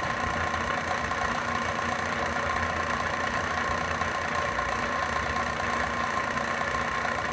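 Milling machine running steadily, its cutter feeding into a 4130 chromoly steel tube to cut a saddle-shaped cope, with a constant whine over a low hum.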